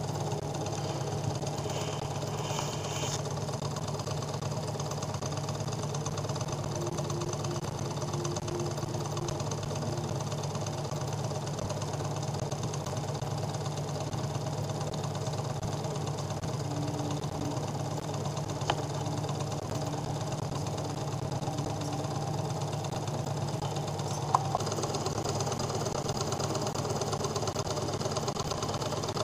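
Homemade Ross-yoke Stirling engine running steadily, a continuous mechanical clatter with a steady low hum. Two sharp clicks break in during the second half.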